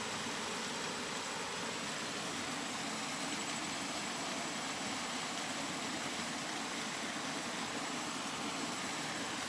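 Steady rain, an even continuous hiss with no separate drops, gusts or thunder standing out, and a faint steady high-pitched tone above it.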